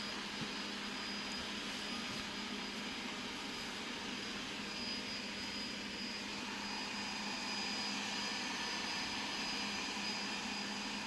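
360 robot vacuum running, its motor giving a steady whir with a constant low hum and a faint high whine, as it drives around looking for its charging dock.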